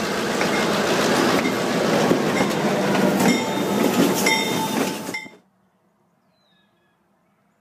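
EMD GP7U-led diesel locomotives passing close by, engines running and wheels clacking over the rail joints with brief high squeals. A grade-crossing bell dings steadily underneath. The sound cuts off abruptly about five seconds in, leaving near silence with faint bird chirps.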